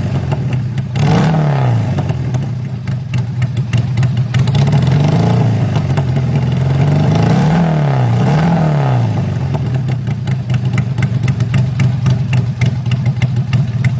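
Honda Supra motorcycle engine running through an exhaust with the silencer removed, idling loudly and being revved in four short blips, the last two close together, before settling back to idle.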